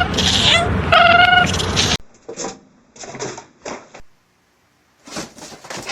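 A cat meowing loudly, with one long call about a second in. After an abrupt cut about two seconds in, there are a few faint short clicks and taps.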